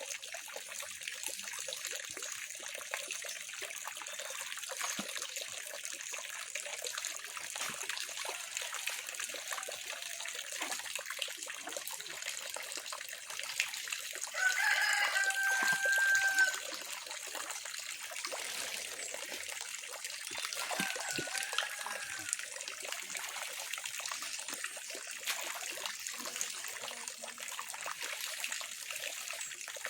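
A rooster crowing, one long held crow about halfway through, with fainter crows from other roosters near the start and about two-thirds of the way in. Water trickles steadily underneath.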